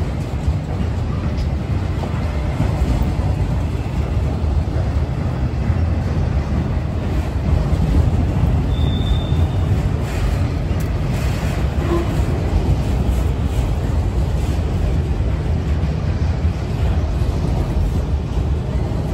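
Freight train of enclosed autorack cars rolling past: a steady low rumble of steel wheels on rail.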